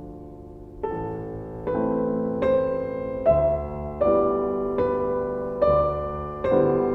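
Background piano music: a slow, even run of struck chords, a little more than one a second, each ringing and fading before the next.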